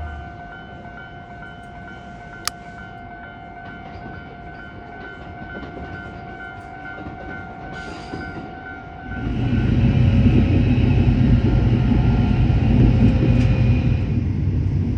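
Train running: a steady high whine over a low hum, then about nine seconds in a louder, steady low rumble sets in.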